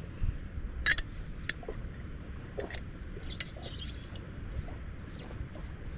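Wind buffeting the microphone as a steady low rumble, with a few small clicks and knocks and a brief hiss a little past three seconds in.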